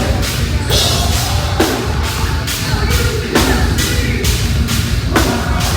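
Heavy metal band playing loud, with distorted guitars and bass over a pounding drum kit, punctuated by repeated hard hits with cymbal crashes.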